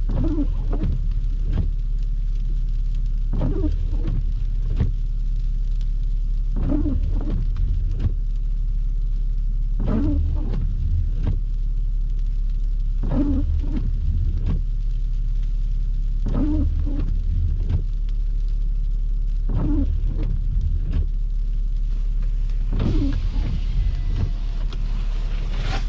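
Steady low engine and road rumble inside a car driving in snow, with a windshield wiper sweep about every three seconds. A hiss rises near the end.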